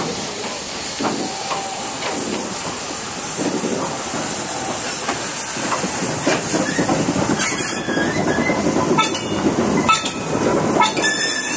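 Freight train with steam traction rolling along, its wheels clacking over rail joints with a steady hiss. Several sharp knocks come in the second half.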